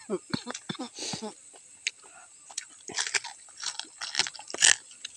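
A person chewing crispy deep-fried eel close to the microphone: irregular crunches and bites, a few louder crunches near the end.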